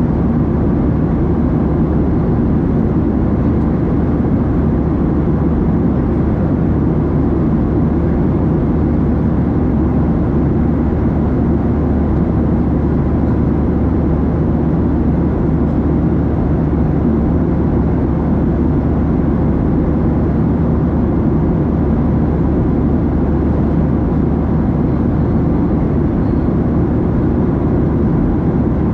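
Steady cabin noise inside a Boeing 737-700 in flight: a deep, even rumble of engine and airflow with a constant low hum and no changes.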